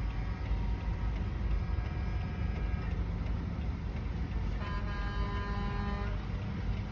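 Heavy logging trucks rumbling past, with one truck horn sounding for about a second and a half, about two-thirds of the way through.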